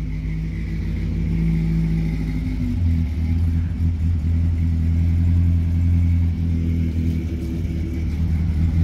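A vehicle engine running steadily, its low hum shifting and getting stronger about three seconds in.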